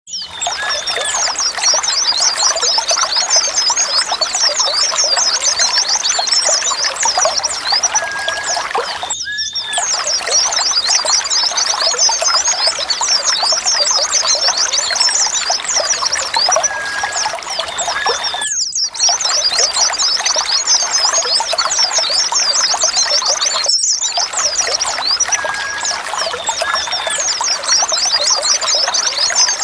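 A flock of white-eyes (pleci) twittering in a dense, unbroken chorus of high, quick chirps over a steady rush of running water. The sound cuts out briefly three times, like the joins of a looped recording.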